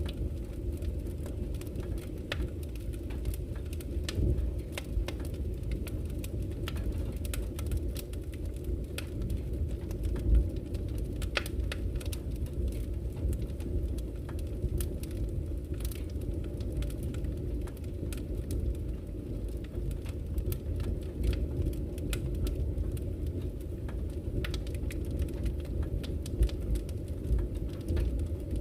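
Campfire crackling with frequent sharp pops, one louder pop about ten seconds in, over the steady low rush of flowing river water.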